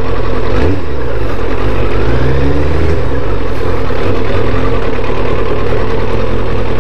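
Kawasaki Ninja ZX-7R's inline-four engine running at low speed as the motorcycle rolls to a stop and idles, with a brief change in engine pitch about two seconds in.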